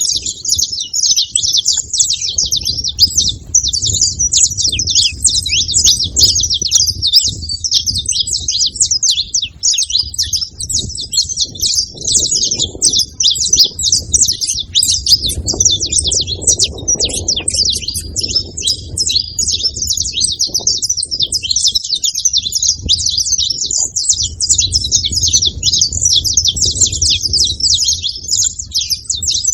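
A group of saffron finches chirping and chattering together in a dense, continuous stream of quick high notes, with a low rumble underneath.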